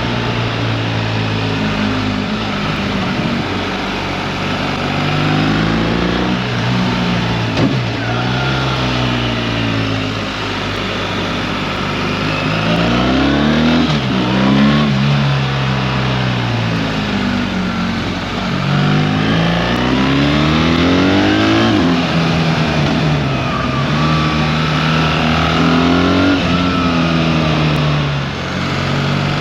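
BMW R 1300 GS's boxer twin engine heard from on board, accelerating and shifting: its pitch climbs several times and drops back at each gear change or as the throttle eases, with a steady rush of noise underneath.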